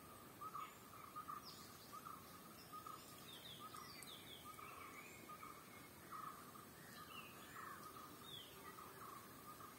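Faint bird calls: a short note repeated over and over, two or three times a second, with scattered high, falling chirps above it.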